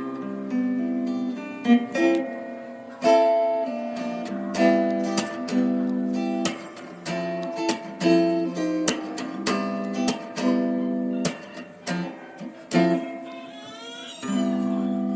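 Music played on acoustic guitar: plucked and strummed notes in a steady rhythm.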